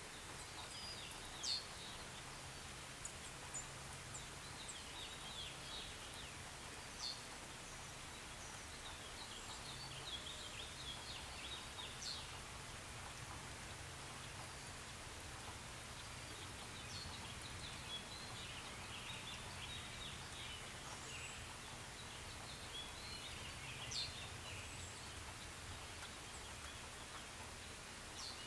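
Light rain ambience: a soft steady hiss with small bird chirps coming and going in loose clusters, and a few sharper single notes or drips standing out.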